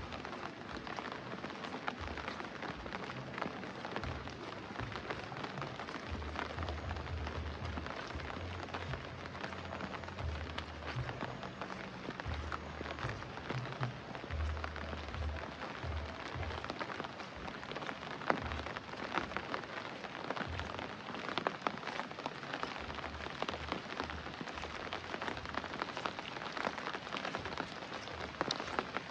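Heavy rain falling steadily, a dense patter of drops. A low rumble comes and goes twice.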